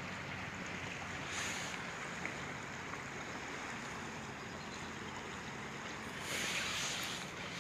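Steady rushing of a small stream, with two brief louder swells of splashing water, about a second and a half in and again between six and seven seconds.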